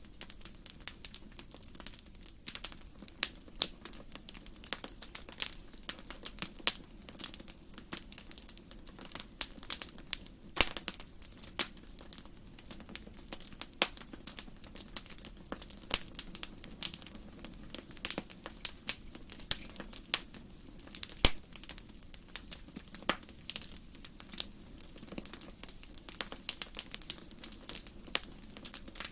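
Wood fire burning in a fireplace: irregular sharp crackles and pops over a soft steady hiss.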